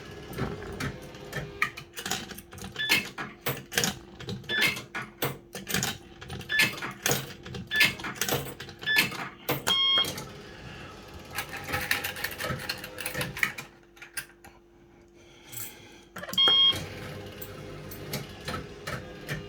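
Firecracker fruit machine running: many quick mechanical clicks from its reels and relays over a steady electrical hum, with short electronic beeps about ten seconds in and again near the end.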